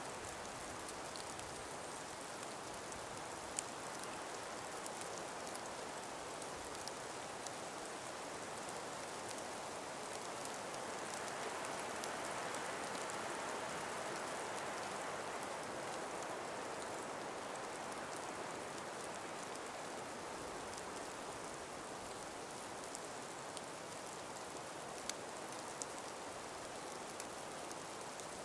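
A calm breeze in an ice- and snow-covered forest: a steady, even hiss that swells gently about halfway through and eases off again, with a few faint scattered ticks.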